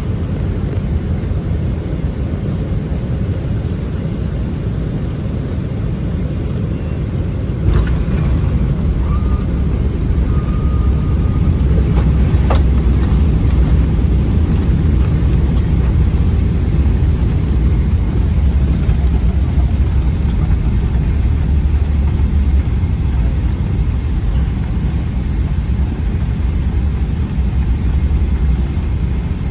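Boeing 777-300ER cabin noise: a loud, steady low rumble of engines and airflow, which grows louder after a click about eight seconds in. A faint short tone sounds soon after, and two sharp clicks follow a few seconds later.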